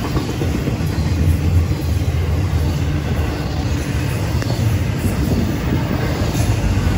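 Florida East Coast Railway intermodal freight train's flatcars rolling past on the rails: a steady rumble with a few faint clicks.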